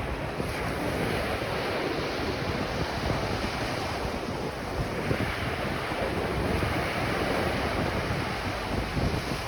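Ocean waves washing on a beach in a steady rush, swelling gently now and then, with wind buffeting the microphone.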